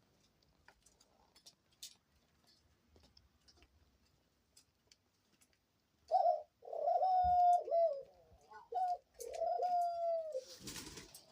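Faint scattered clicks, then about halfway in a pet dove calls in a run of drawn-out coos, several in a row. A short rustling burst follows near the end.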